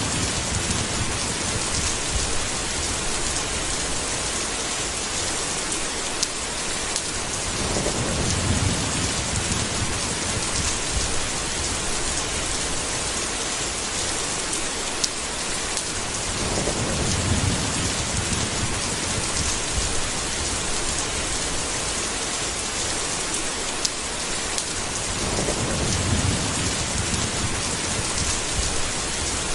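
Steady, dense rain with low rolls of thunder rumbling up three times, about nine seconds apart.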